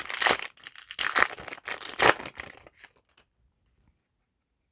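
Foil trading-card booster pack wrapper crinkling and tearing in quick, dense crackles, which stop about three seconds in.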